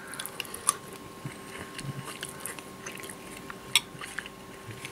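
A man chewing a mouthful of soft stewed meat and vegetables, with a few small clicks. The sharpest click comes a little under four seconds in.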